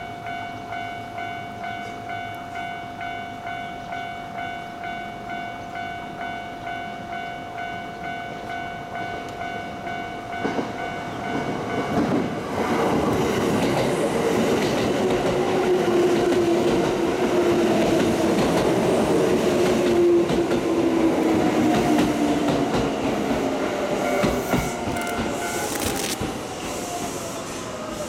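Kintetsu electric train running past close by along the platform, with wheel-on-rail rumble and a motor whine that falls in pitch over several seconds. Before it arrives, an electronic bell-like tone pulses about twice a second. Near the end, the pulsing returns briefly, and a second falling whine comes from another approaching train.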